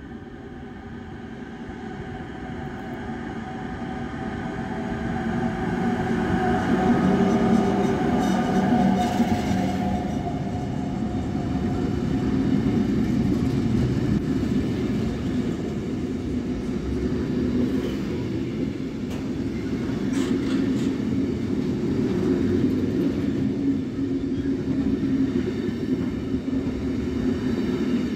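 A DB Cargo electric locomotive approaches and passes with a container train. Its pitched whine grows louder over the first several seconds and fades about ten seconds in. The wagons then roll by with a steady low rumble and some wheel clatter on the rails.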